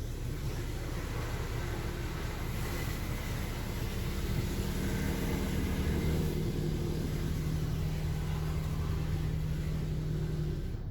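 A motor running steadily with a hum and a hiss, which stops abruptly near the end.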